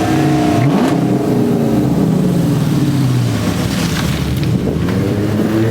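Car engine revving: a quick rise in pitch about half a second in, then running with a steady low note that drops near the end.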